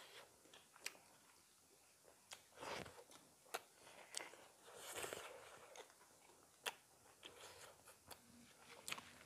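Faint eating sounds of people eating curry and rice with their hands: soft chewing with scattered small clicks.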